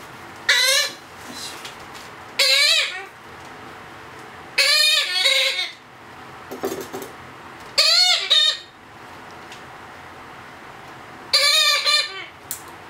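Blue-headed parrot chick giving begging calls while being hand-fed: five loud calls, each under a second, with a wavering pitch, a few seconds apart.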